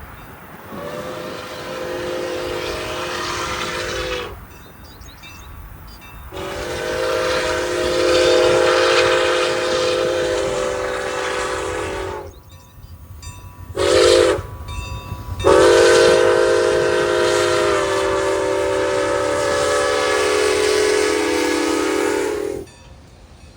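Locomotive multi-chime air horn blowing long, long, short, long, the standard grade-crossing signal, each blast a steady chord. A low train rumble runs underneath.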